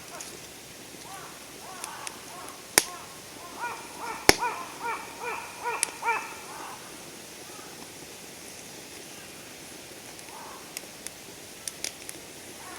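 Wood campfire burning with a couple of loud sharp pops and a few fainter crackles. A bird calls a quick run of about eight repeated notes from about three and a half seconds in.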